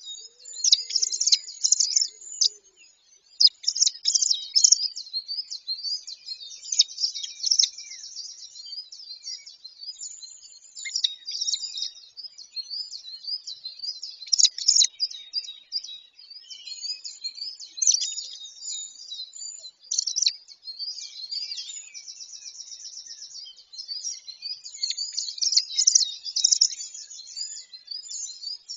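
Small birds singing and calling over one another: a steady chorus of high-pitched chirps, whistles and trills, with a fast, even trill about three-quarters of the way through.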